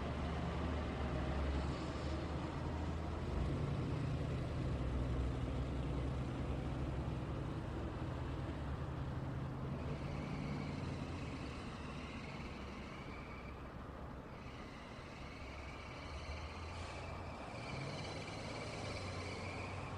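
Road traffic: cars and trucks passing with a steady low engine rumble that eases a little about halfway through. From about halfway, a high wavering chirring of insects runs over the traffic.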